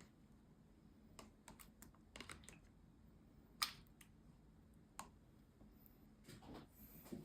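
Near silence with faint, scattered clicks and taps of kitchen utensils on dishes, the sharpest about three and a half seconds in.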